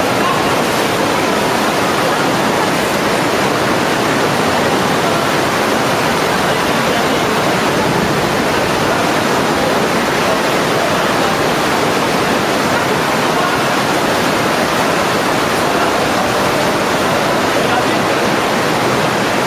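Waterfall: the loud, steady rush of falling water, unchanging throughout.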